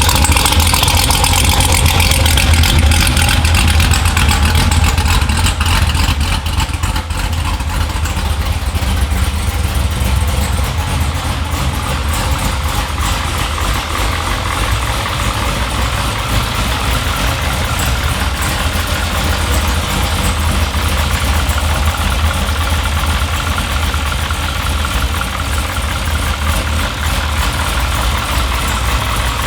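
Freshly built Chevrolet LT1 V8 in a C7 Corvette, with a stage 1 cam, idling with a steady low, lopey rumble shortly after a cold start. It is a little louder for the first few seconds, then settles to an even idle.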